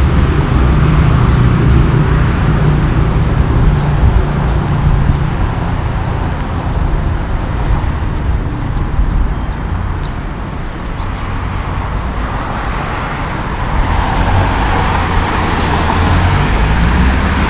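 Steady road-vehicle noise: engine and traffic rumble, dipping slightly partway through.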